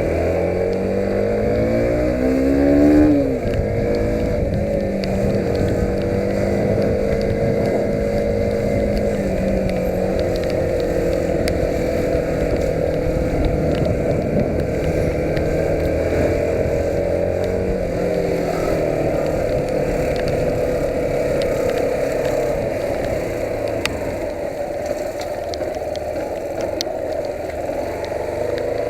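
Yamaha YBR 125's single-cylinder four-stroke engine under way. It revs up for about three seconds, drops in pitch at a gear change, then runs steadily, with wind and road noise.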